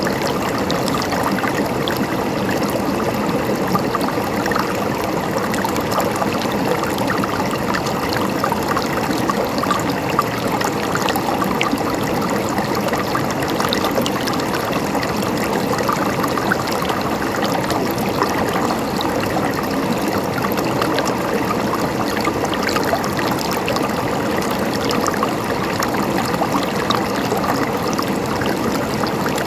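Mountain stream gurgling and trickling, steady throughout with no change in level.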